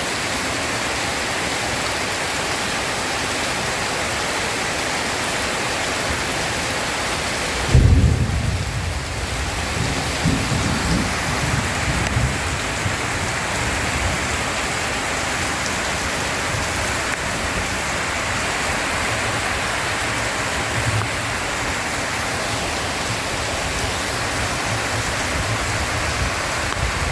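Heavy rain falling steadily in a thunderstorm. About eight seconds in, a sudden loud thunderclap breaks in, and rolling thunder rumbles on for several seconds, with fainter rumbles later.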